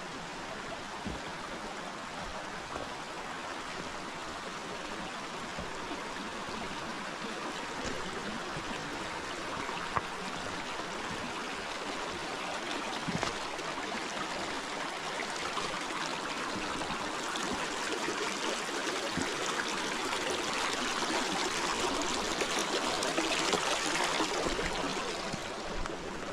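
Forest river water running and rushing in a steady, even wash that grows gradually louder toward the end.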